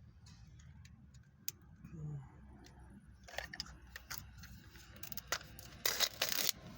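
Small plastic toy pieces clicking and rattling as they are handled, with a short burst of rustling about six seconds in.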